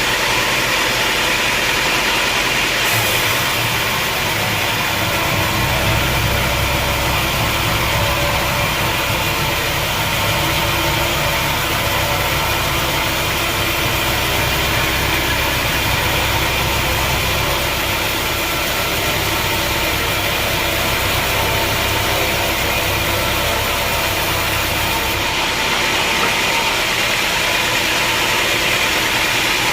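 Sawmill machinery running steadily, a loud mechanical noise with a deeper hum that comes in about three seconds in and drops away a few seconds before the end.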